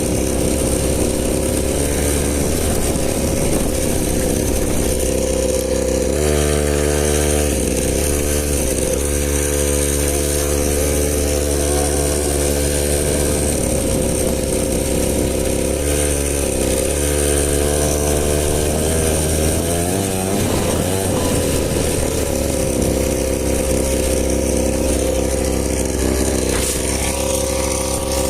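Small 50cc dirt bike engine running steadily at high revs. Engine speed dips and picks up again several times.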